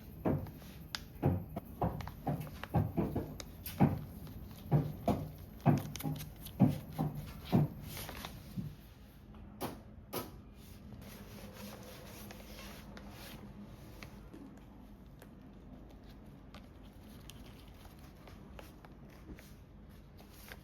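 A series of irregular knocks and clunks from objects being handled, about a dozen in the first eight seconds and two more around ten seconds in, then only a faint steady hiss.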